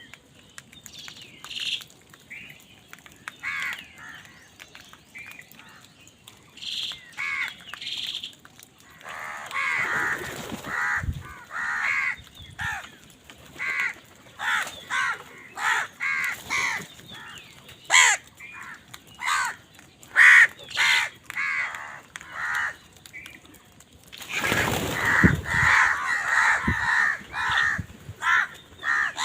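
Crows cawing over and over, sparse at first and coming thick and fast from about a third of the way in, with a loud burst of overlapping caws near the end, as in a squabble over food.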